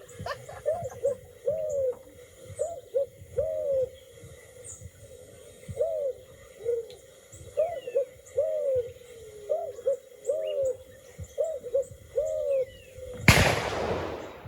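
Repeated short, arched hooting coos from birds in the trees, about twenty in a row. About 13 seconds in, a single loud shotgun blast cuts across them and trails off.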